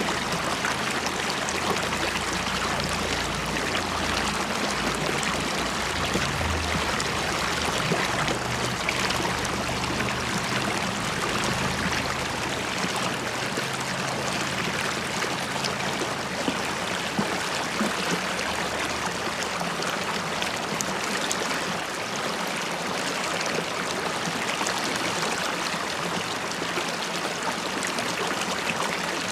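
River water flowing and bubbling, a steady splashing rush with many small gurgles and drips.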